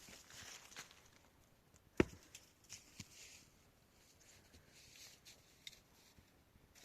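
A few scattered light knocks and clicks over a faint hiss, with one sharp knock about two seconds in.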